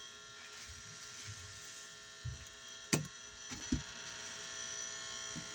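Hand squeezing a soapy sponge loaded with cleanser paste: faint crackling and squishing, with a few soft knocks between about two and four seconds in, over a steady electrical hum.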